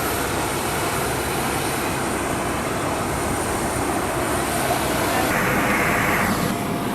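Steady, continuous aircraft noise on the ground during boarding, a rushing hum that doesn't let up. A louder hiss swells about five seconds in and stops about a second later.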